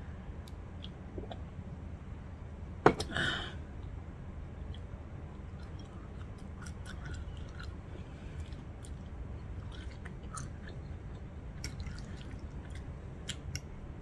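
Close-miked eating: quiet chewing and small mouth and fork clicks over a steady low hum, with one sharp knock about three seconds in.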